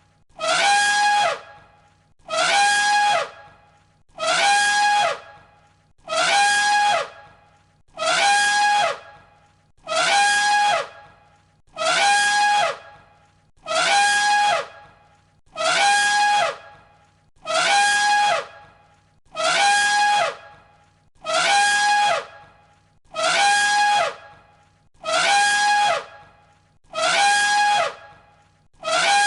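Elephant trumpeting: the same short call repeated about every two seconds, each a held high note that drops in pitch at the end.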